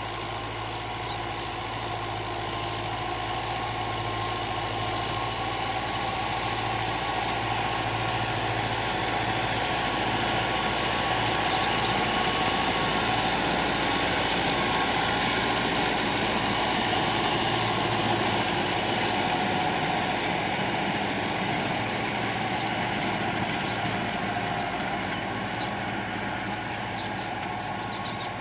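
Fiat 640 tractor's diesel engine running steadily, growing louder toward the middle and easing off near the end.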